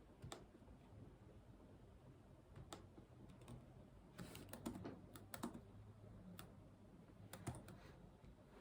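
Computer keyboard keys pressed now and then, faint and irregular, with a short run of keystrokes about halfway through.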